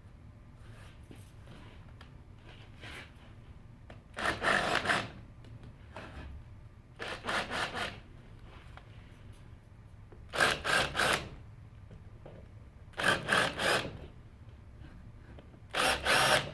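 Wood being worked by hand with a saw or abrasive tool, in short bursts of three or four quick strokes about every three seconds.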